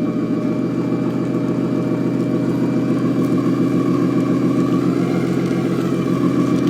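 Truck engine running steadily: an even drone that grows gradually louder.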